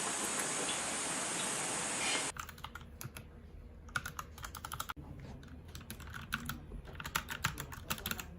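Typing on a Royal Kludge RK61 mechanical keyboard with brown switches: a quick, irregular run of key clicks. It starts about two seconds in, after a steady hiss.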